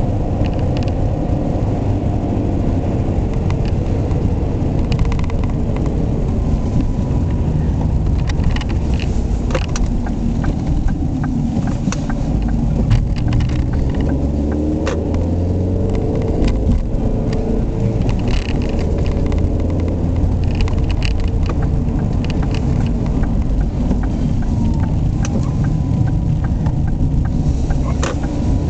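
Ford Mondeo Estate's 1.6-litre, 125 hp petrol four-cylinder engine running while the car is driven, with a heavy low rumble and engine pitch rising and falling with speed, an engine the owner calls very noisy. Scattered sharp clicks sound through it.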